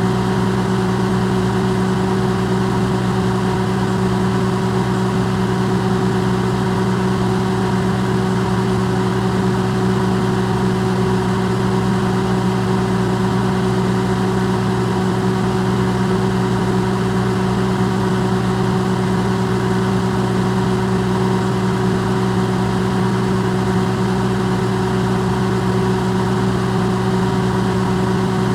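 Microwave oven running, recorded amplified: a steady, unchanging hum with a fan-like hiss.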